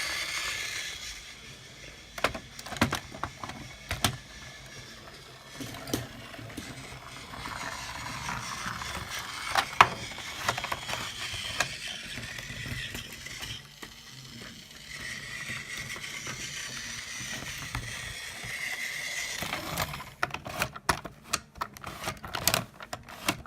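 Scattered small mechanical clicks and rattles over a low hiss, with a quick run of clicks near the end.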